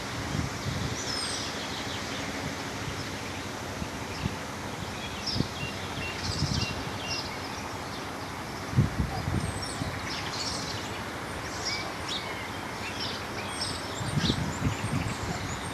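Small birds chirping: many short, high calls scattered through, over a steady outdoor hiss. A few low thuds come about nine seconds in and again near the end.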